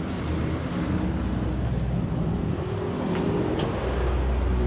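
Steady rumble of road traffic, with faint engine hum among it.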